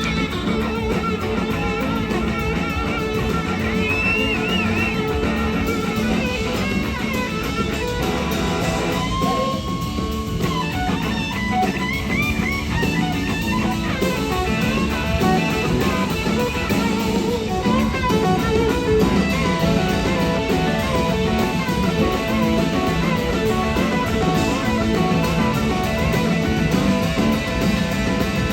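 Live electric slide guitar solo, long held notes wavering and gliding in pitch, over a full band with bass and drum kit. One held note about nine seconds in stands out against a thinner stretch of the band.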